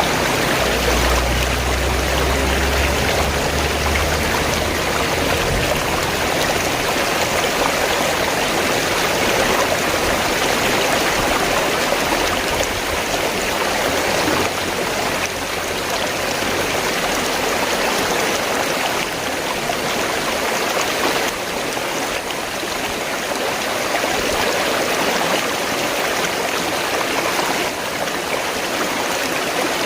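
River water flowing steadily, a continuous rushing and babbling of running water.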